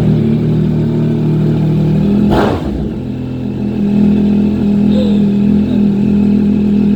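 Motorcycle engine running loud and steady just after starting, with a short noisy burst about two and a half seconds in.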